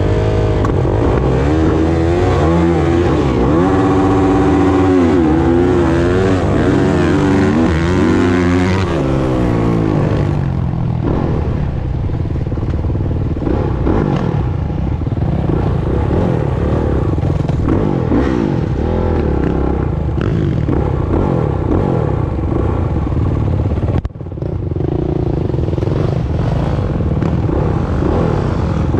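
Dirt bike engines revving up and down through gear changes, with several bikes' engine notes overlapping at first. There is a brief sudden drop in sound about three-quarters of the way through.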